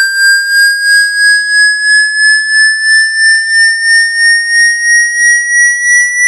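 Electronic water-eject tone meant to shake droplets out of a phone's charging port: a single high tone with overtones, slowly rising in pitch and pulsing about three times a second.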